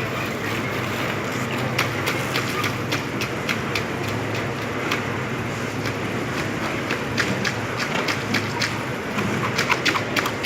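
Building-site sound: a steady low hum under many quick, irregular sharp taps, which come thicker near the end.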